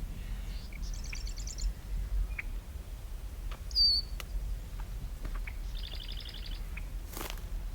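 Wetland birds calling: two short, rapid high trills and one sharp, high whistled call in between, over a steady low rumble.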